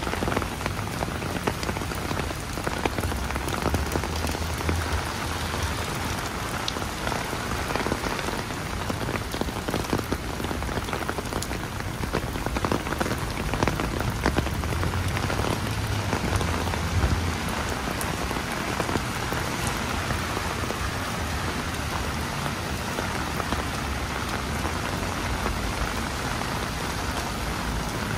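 Heavy rain falling on an umbrella and the street around it: a dense, steady hiss full of sharp drop hits. A low rumble swells twice.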